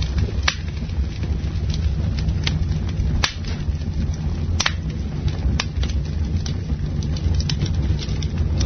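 Campfire crackling: scattered sharp pops and snaps of burning wood over a steady low rumble.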